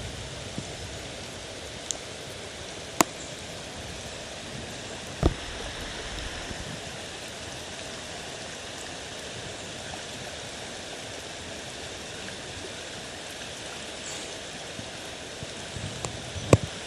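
Flooded river water rushing steadily. A few sharp knocks break in, the loudest about three seconds in, another about five seconds in and one near the end.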